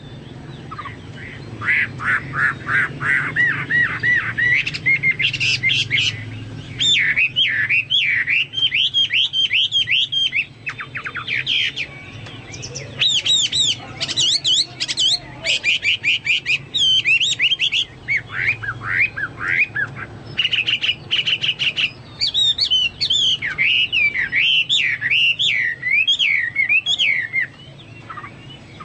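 Chinese hwamei singing a long, varied song of fast repeated whistled notes and sweeping up-and-down phrases, broken by short pauses; its song is likened to that of a cucak Papua or cucak mas.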